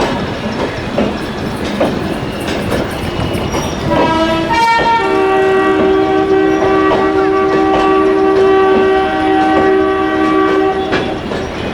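Passenger train rolling in with its LHB coaches clicking over the rail joints. About four seconds in, the locomotive sounds its horn: one short note, then a long two-tone blast of about six seconds.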